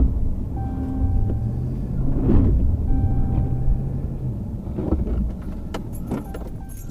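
Vehicle engine running with a low rumble. A short tone about 0.7 s long repeats roughly every two seconds over it, and a few sharp clicks come near the end.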